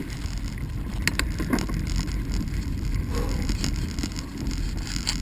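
Bicycle rolling over a rutted dirt trail: a steady low rumble with wind on the microphone and a couple of sharp rattling clicks about a second in.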